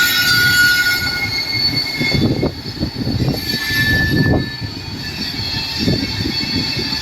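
Railway wheels squealing against the rails as a rake of coaches is shunted by a WDG-3A diesel locomotive, the squeal fading about a second in and returning briefly mid-way, over a low rumbling and knocking of the moving cars.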